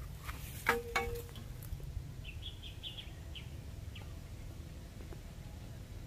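A small bird chirping: a short run of quick high chirps about two to three and a half seconds in, over a steady low rumble. A couple of sharp clicks come just before, under a second in.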